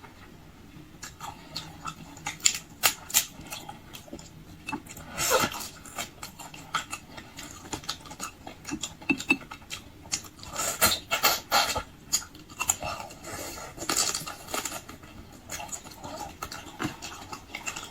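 Eating sounds: wet chewing and smacking with many small irregular clicks, from someone eating raw marinated crab with its frozen roe.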